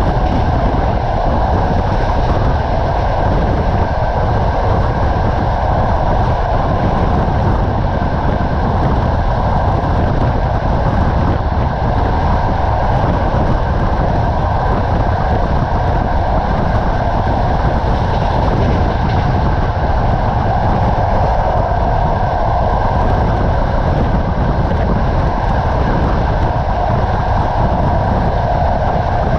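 Passenger train carriage running along the line at speed: a steady rumble and rush of the wheels on the rails.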